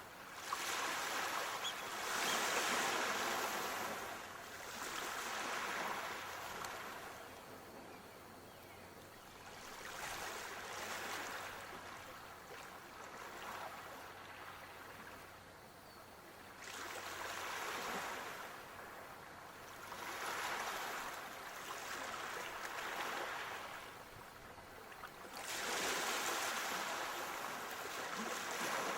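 Ocean waves washing onto a shore, the surf swelling and falling away every few seconds.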